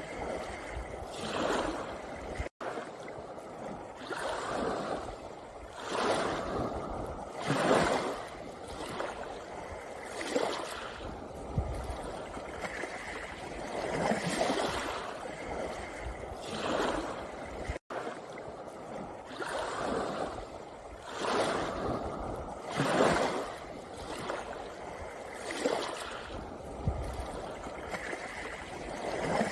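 Small sea waves lapping and washing over a pebble beach, the water noise swelling and falling every second or two. The sound cuts out for an instant twice.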